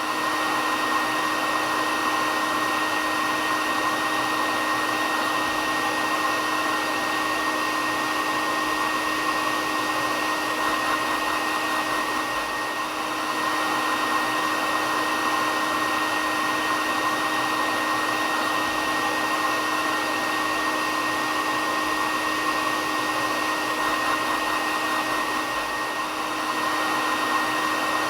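Hair dryer (Föhn) running steadily, a continuous rushing blow with a steady motor hum and whine, used as white noise for soothing a baby to sleep.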